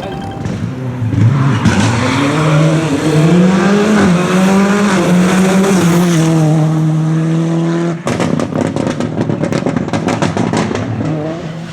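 Rally car engine revving up and held at high revs, its pitch rising then staying fairly level. About eight seconds in the sound changes abruptly to a rapid run of sharp crackles.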